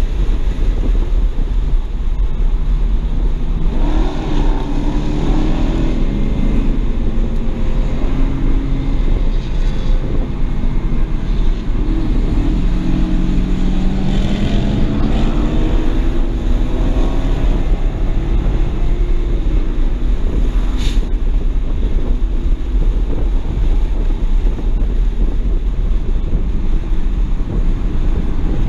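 Inside the cabin of a 2007 BMW 335i on track: the twin-turbo N54 straight-six's note rises and falls with throttle and gear changes, over a heavy rumble of road and wind noise. A single sharp click comes late on.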